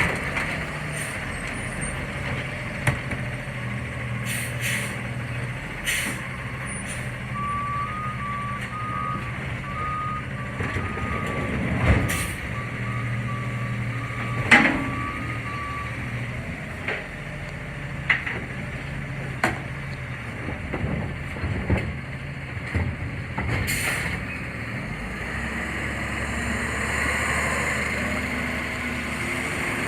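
CNG garbage truck working, its engine running steadily. For several seconds partway through, its reverse alarm beeps in a steady row of short beeps. Several sudden sharp sounds stand out, likely bangs and air-brake hisses.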